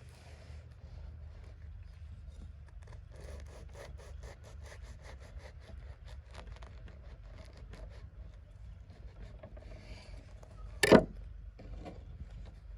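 A quick run of rasping, scraping strokes, about six a second, then one sharp loud knock about eleven seconds in, over a low steady rumble.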